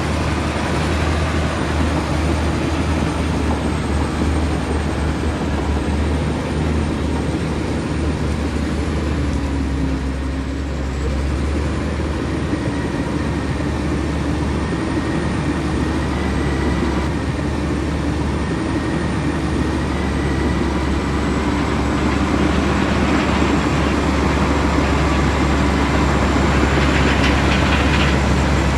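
Komatsu D65E bulldozer's diesel engine running steadily as the machine works, a deep continuous drone that grows a little louder in the last few seconds.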